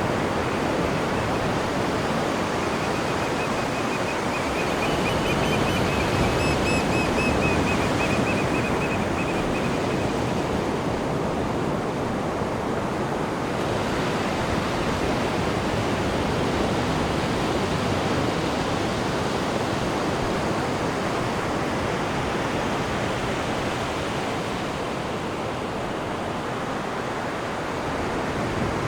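Steady rushing of churning sea water in a cruise ship's wake, heard off the stern. A faint, high, rapidly pulsing chirp rides over it from about three to ten seconds in.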